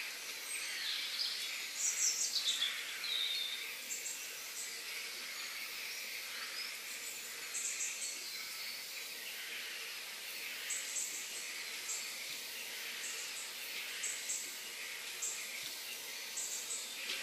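Natural outdoor ambience: birds calling over a steady high insect drone, with a cluster of falling bird chirps about two seconds in and short high chirps repeating throughout.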